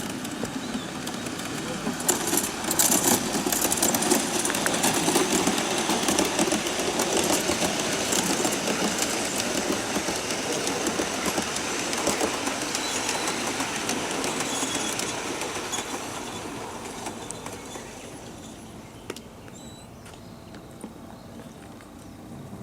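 Large-scale model train running past on its track, its wheels clicking over the rail joints. It grows loud about two seconds in, then fades away over the second half.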